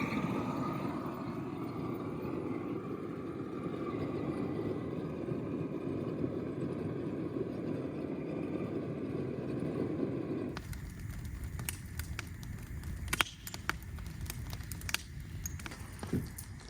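Steady vehicle running noise that cuts off abruptly about ten seconds in, followed by scattered sharp clicks and crackles.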